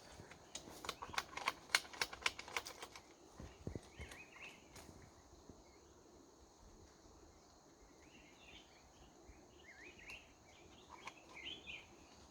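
Small birds chirping in short, faint calls, after a quick run of sharp clicks in the first three seconds, over a steady high hiss.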